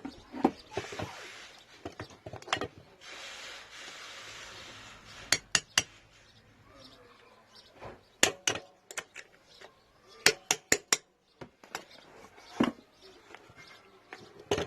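Hammer tapping a screwdriver against a universal-joint circlip: a series of sharp metallic taps in small groups of two to four. In the first five seconds there are two stretches of rough, even scraping noise.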